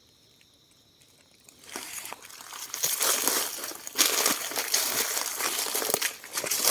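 Near silence at first, then from about a second and a half in, dry leaf litter crunching and crackling irregularly underfoot.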